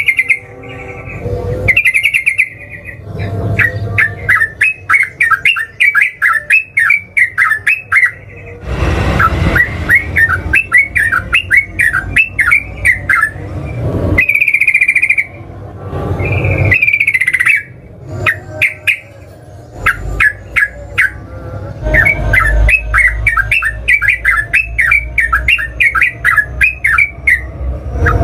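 Yellow-vented bulbul (trucukan) singing: fast runs of bubbling, chattering notes with a few longer held whistles in between, long rapid song phrases (ropel) of the kind used to lure and provoke other males. A short rushing noise cuts in about nine seconds in.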